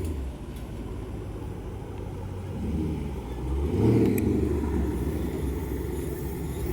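A car's engine rumbling, swelling twice and loudest about four seconds in before easing off.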